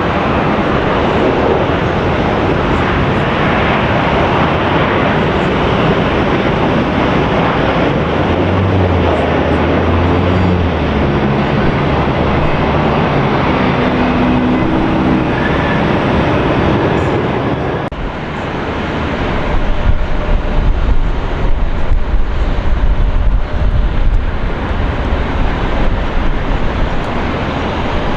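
Jet airliner engines running loud and steady. About 18 seconds in the sound dips briefly, then a louder, low, unsteady rumble takes over.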